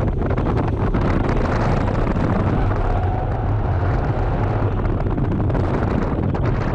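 BMW E46 330ci's 3.0-litre straight-six running, its steady loud rumble mixed with wind buffeting the microphone.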